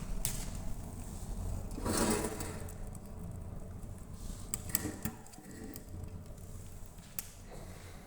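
Wood fire burning in a fireplace: scattered crackles and sharp pops over a low steady rumble, with a louder rushing surge about two seconds in.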